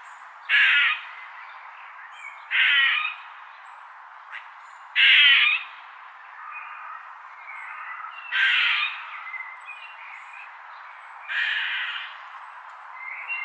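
A bird giving five loud, harsh squawking calls, each about half a second long and roughly three seconds apart, with faint high chirps of other birds between them.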